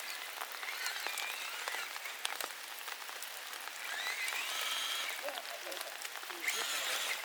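Steady rain hiss with many scattered drop taps.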